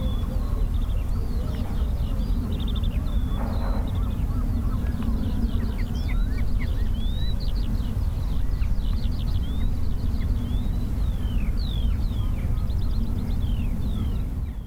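Small birds chirping and twittering over and over, many short quick notes, above a steady low rumble.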